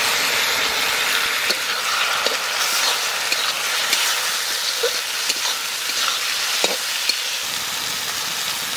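Boiled sal mushrooms sizzling in hot mustard oil and fried spice paste in a karahi, while a spatula stirs them with occasional scraping clicks against the pan. The sizzle eases a little near the end.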